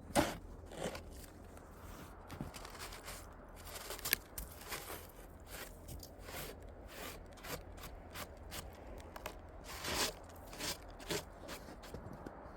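Irregular crunching and scraping in wet snow, with a few sharper knocks, the loudest right at the start and about ten seconds in.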